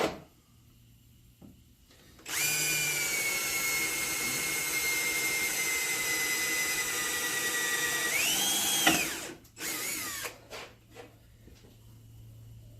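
Electric drill boring a pin hole through a motorcycle seat pan into the subframe mount: a steady motor whine for about six seconds that sags slightly under load, speeds up briefly and stops, then a short second burst.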